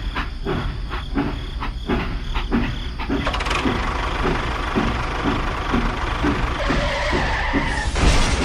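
A small motor running, with a regular knock about two or three times a second and a loud sudden burst near the end.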